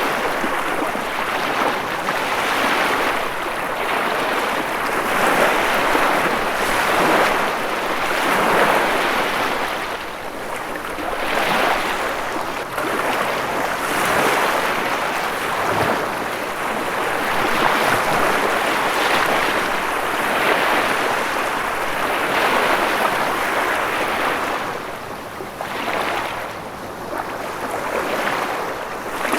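Ocean waves washing onto a shore, a continuous rushing surf that swells and eases every two or three seconds.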